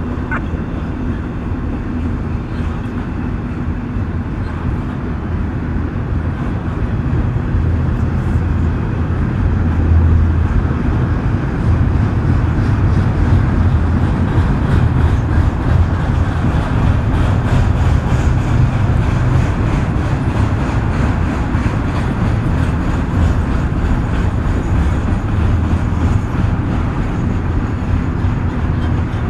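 Union Pacific freight train passing: a continuous low rumble of locomotives and rolling cars that swells about a third of the way in, then holds steady.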